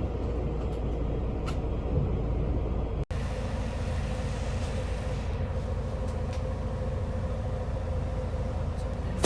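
Steady low rumble of a moving city bus heard from inside, with a faint steady hum. The sound drops out for an instant about three seconds in, then continues much the same.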